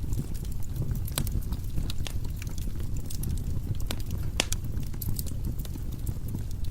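Firewood burning in a fireplace: a steady low rumble of flames with irregular sharp crackles and pops from the logs, a few louder pops scattered through.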